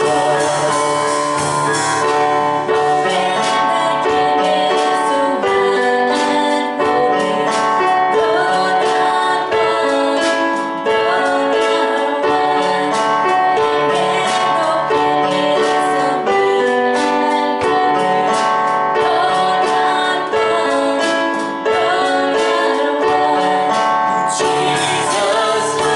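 Church worship music: a keyboard playing sustained chords with singing.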